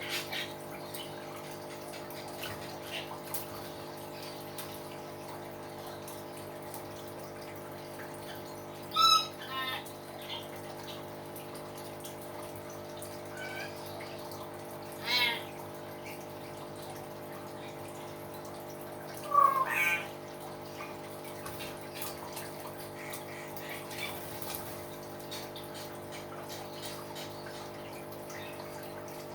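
Hill myna giving a few short, loud calls several seconds apart: two close together, then another, then the loudest, over a steady background hum.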